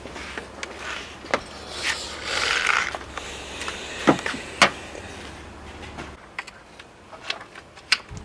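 Scattered clicks and knocks of plastic intake parts being unclipped and handled in an engine bay, with a rustling scrape about two seconds in and two sharper clicks a little after four seconds.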